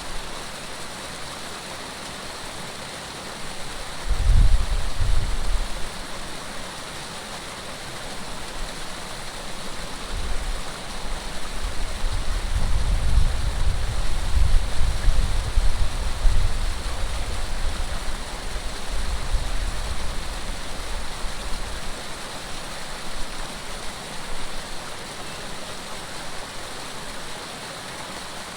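Flowing water rushing steadily, like a stream or small waterfall. Wind gusts buffet the microphone as low rumbles, once briefly about four seconds in and again for much of the middle.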